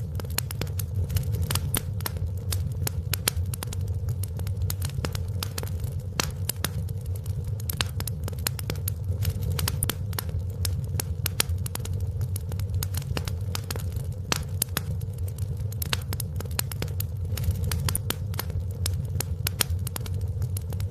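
Wood fire in a fireplace crackling steadily, with many irregular sharp pops and snaps over a low, even rumble of the burning.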